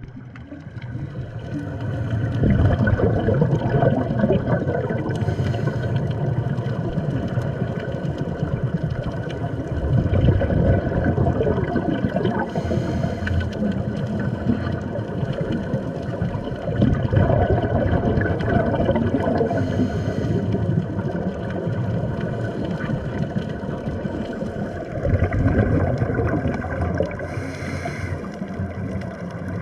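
Scuba breathing heard underwater: a regular cycle of bubbly exhalation rushing from the regulator about every seven to eight seconds, with a short hiss of inhalation in between.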